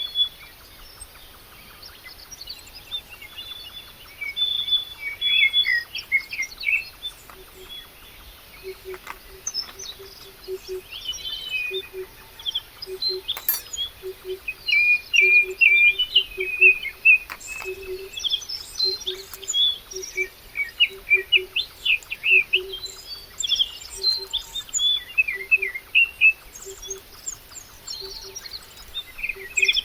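Birdsong: several birds chirping with many quick, high calls. Starting about a quarter of the way in, a short low note repeats roughly twice a second, with a few faint clicks.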